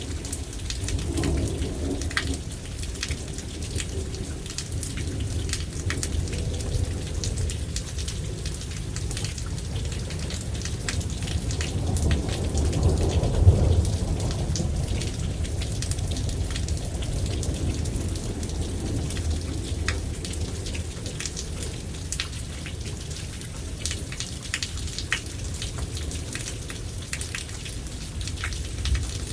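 Rain falling and pattering, with a low rumble of thunder that swells to its loudest about halfway through and then eases back.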